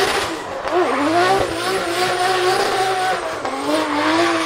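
Drift car's engine held high in the revs, its pitch wavering up and down as the throttle is worked, over the hiss of spinning tyres.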